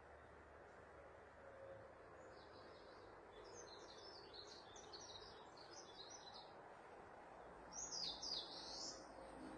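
Birds chirping over a faint steady background hiss, in quick runs of short notes and then a louder burst about eight seconds in.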